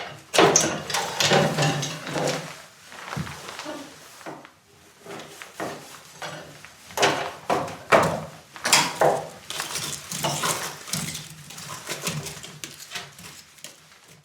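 Pots and utensils being handled: an irregular run of clinks and knocks, some ringing briefly, that stops abruptly near the end.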